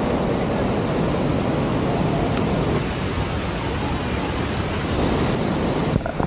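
Steady roar of a waterfall crashing down close by, Niagara's Bridal Veil Falls at Cave of the Winds, a dense even rush of water noise. The sound changes abruptly near the end.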